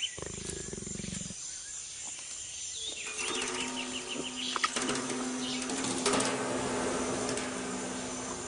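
A jaguar raking its claws down a hard, scarred wooden stump, making repeated rasping scrapes. The jaguar is sharpening its claws and marking its territory.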